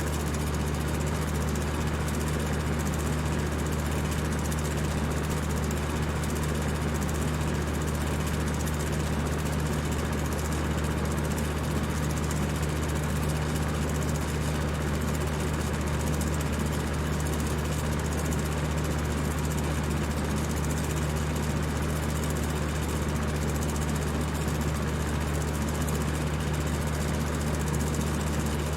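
High-speed electric fan running steadily: a constant whir of rushing air over a low motor hum.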